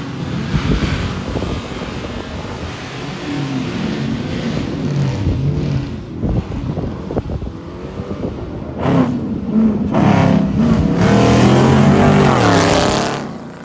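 Straight-piped Dodge 5.7-litre HEMI V8 exhaust being revved several times. It gets louder about nine seconds in, then holds a long high rev near the end before dropping off.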